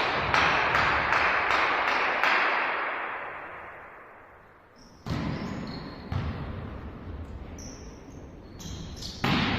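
Volleyball rally sounds in an echoing sports hall. Rhythmic clapping and cheering, about three claps a second, die away over the first few seconds. Then, about five seconds in, a ball thumps and sneakers squeak on the court floor, and another hard ball strike comes near the end.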